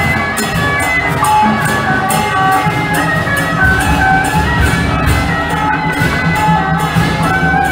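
Loud procession music: a wind-instrument melody of held notes over drums and cymbals beating steadily.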